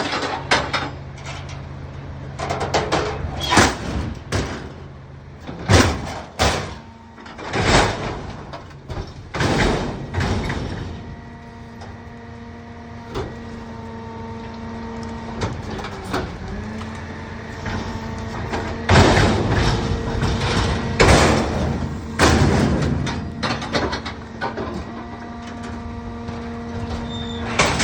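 Rear-loader garbage truck collecting trash: a series of loud bangs and thuds from cans and bags being tipped into the hopper, over the engine. Then a steady whine sets in as the packer's hydraulics cycle, broken by loud crunching bursts as the load is compacted.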